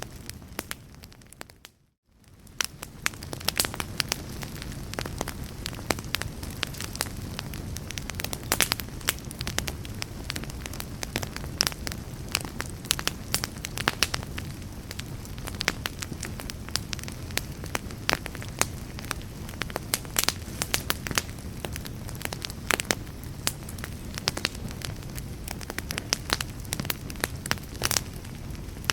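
Fire crackling, with frequent sharp pops and snaps over a steady low rumble and hiss. About two seconds in, it fades briefly to near silence and then fades back up.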